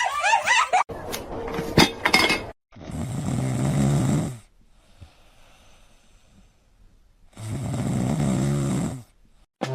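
Snoring: two long snores, each about a second and a half, spaced about five seconds apart, with a few short clicks before the first.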